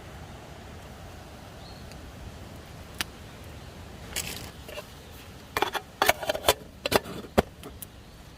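A single sharp click about three seconds in, then a run of sharp clicks and clacks over the next few seconds, like small hard objects being handled, over a low steady background hum.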